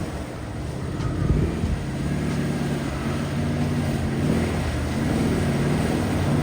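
Off-road 4x4's engine running at low revs, its pitch dipping and rising slightly now and then.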